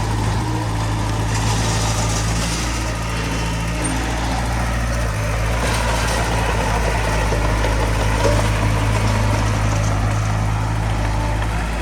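Heavy diesel engine running steadily, a constant deep hum with no sharp impacts.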